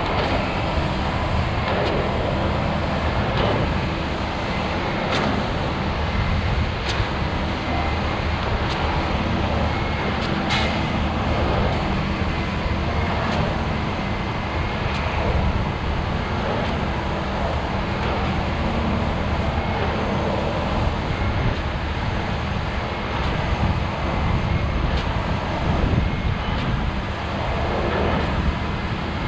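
Steady rumbling vehicle noise with a few faint clicks.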